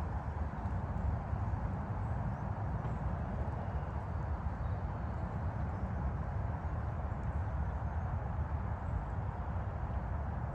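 Steady outdoor ambience: the continuous low rumble and even hiss of distant highway traffic.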